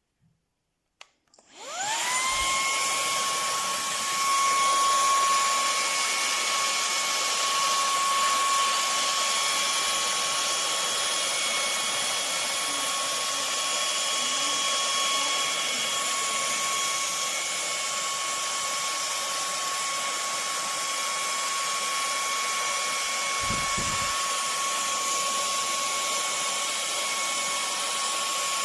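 A Cecotec Scoba 2100 Twice cordless stick vacuum's brushless digital motor is switched on with a click. It spins up with a rising whine, then runs steadily with a high whine over a rushing hiss of air. There is a brief low thud near the end.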